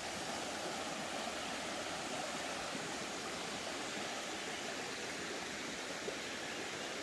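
A running forest stream: a steady rush of flowing water.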